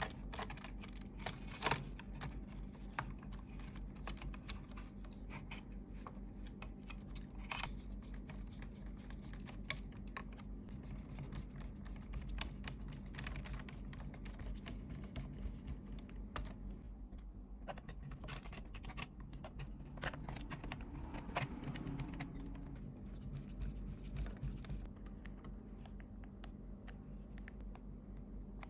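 Irregular light clicking, tapping and scraping of small parts and hand tools being handled, over a steady low hum.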